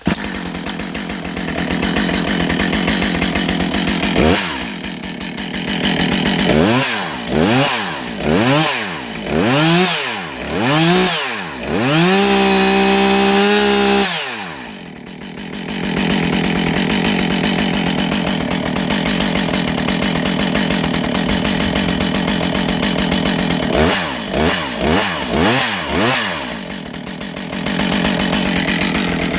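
Husqvarna 565 two-stroke chainsaw engine catching and idling. It is then blipped through several quick rising and falling revs, held at full revs for about two seconds, and dropped back to idle. Another short run of blips comes near the end.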